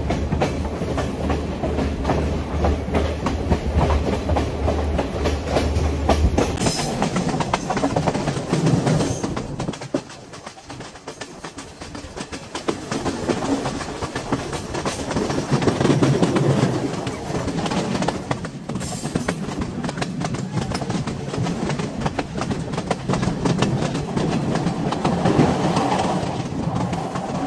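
Passenger train running along the track, heard from an open carriage window. The sound changes abruptly about six seconds in, drops for a few seconds around ten seconds in, then builds again.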